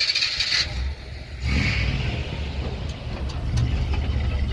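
A short hiss, then about a second and a half in a car engine's low, steady rumble comes in and keeps running.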